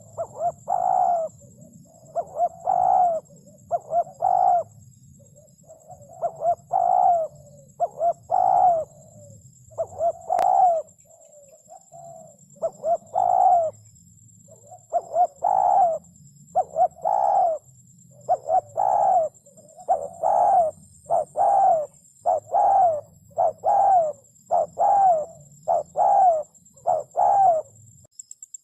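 Spotted dove cooing over and over: short coo notes that fall in pitch, given in phrases that come faster and closer together in the second half.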